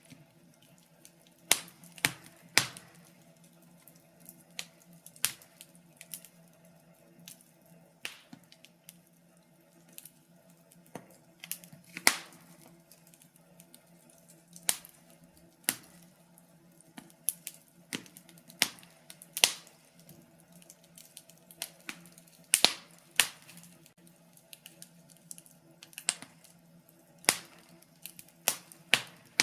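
Wood fire crackling: sharp, irregular pops and snaps, some single and some in quick clusters of two or three, over a faint steady low hum.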